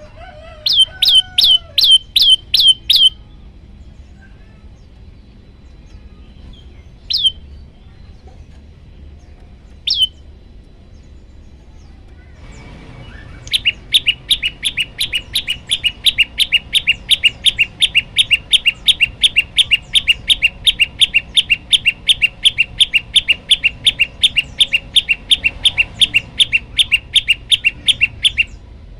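Prenjak lumut singing: a short run of about eight sharp, high chipping notes, two lone notes a few seconds apart, then a long, steady series of rapid repeated notes at about four a second that stops shortly before the end.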